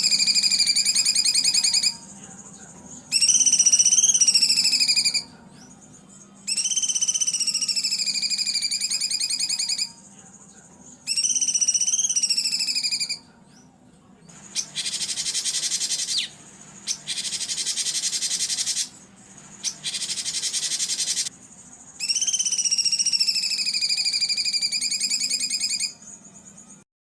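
Recorded songbird song: repeated phrases of fast trills, each two to three seconds long with short gaps between. In the middle a run of harsh, rasping calls takes their place. The sound cuts off suddenly near the end.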